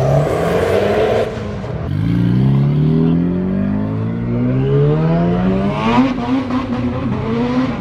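Car engine accelerating hard: after a brief rush of noise at the start, its pitch climbs steadily for about four seconds, then changes abruptly about six seconds in, as at a gear change, and holds steadier.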